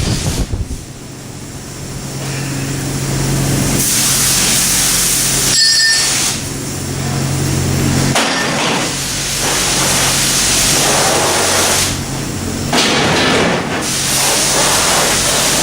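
High-pressure spray wand at a self-serve car wash, spraying with a strong steady hiss that breaks off briefly a couple of times. A low pump hum runs under it through the first half.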